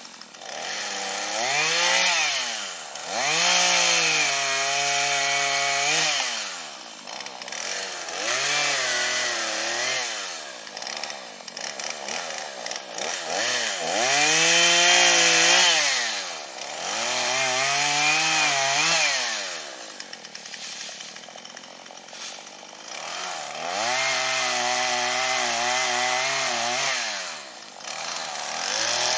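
Chainsaw cutting up fallen wood: the engine revs up and down about five times, holding at speed for a few seconds in some cuts, and drops back between them.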